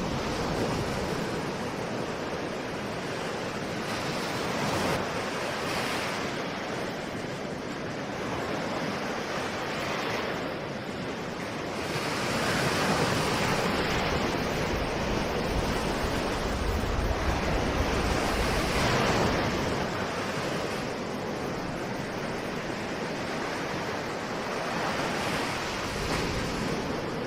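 Ocean surf: waves breaking and washing ashore in a continuous rush that swells and eases every few seconds, with some wind on the microphone.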